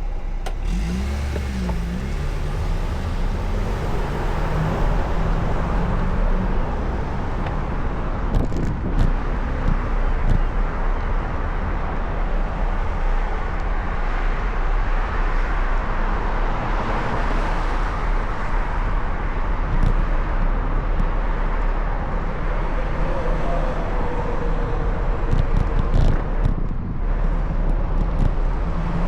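City road traffic: a steady wash of cars and vehicle engine noise going by, with a few brief knocks.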